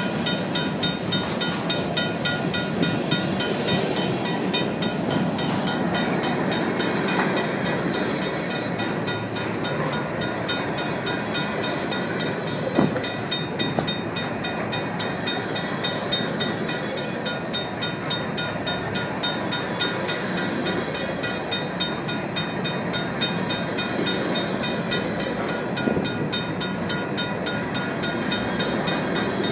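Loaded covered hopper cars of a Union Pacific grain train rolling past with steady wheel-on-rail rumble. Over it, the crossing's RACO mechanical bell rings with fast, even strokes throughout. One sharper clank comes about halfway through.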